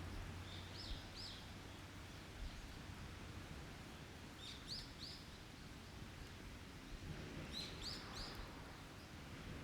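A wild bird calling in short high chirps, two notes about a second in, then groups of three around the middle and near the end, over a faint steady low rumble of the forest background.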